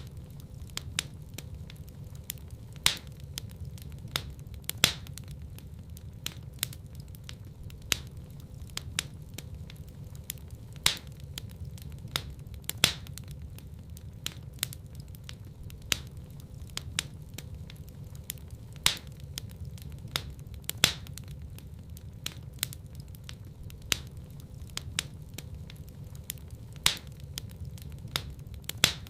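Wood fire in a fireplace crackling steadily over a low rumble of flame, with frequent small snaps and a louder pop every few seconds.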